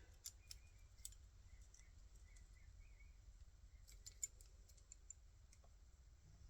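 Near silence with a few faint clicks of chainsaw parts being handled, the sharpest about four seconds in.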